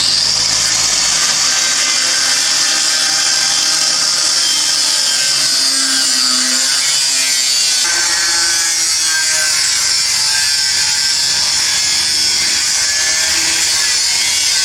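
Power tool cutting through the rusty exhaust pipe of a Toyota 4Y engine where the extractors are welded on, a loud, steady metal-cutting noise that starts suddenly.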